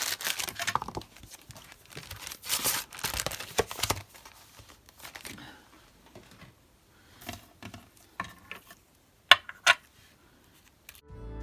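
Paper and card stock being handled and rustled on a craft table, loudest in the first few seconds, then sparser, with two sharp taps a little after nine seconds.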